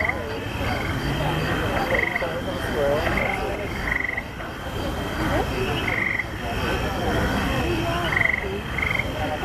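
Murmur of a waiting crowd with a low background rumble, over which short buzzing croak-like calls repeat irregularly, about one every second or two.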